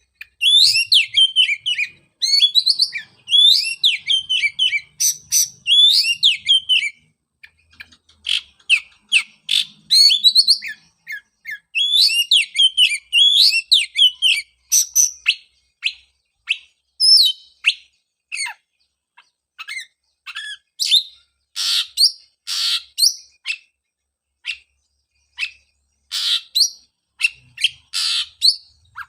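Oriental magpie-robin singing: rapid, varied whistled phrases for about the first seven seconds, then a looser run of sharp chips and short notes with several harsh, rasping calls in the second half.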